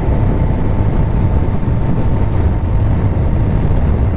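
Kawasaki Ninja 1000 motorcycle under way at a steady speed: its inline-four engine running evenly under a steady rush of wind and road noise.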